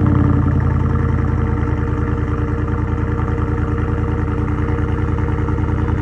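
Chevy Silverado 1500 pickup idling just after a cold start, its exhaust running through a resonator delete and a Carven Type R muffler. The idle is steady and deep, easing down slightly over the first seconds as the fast cold idle settles.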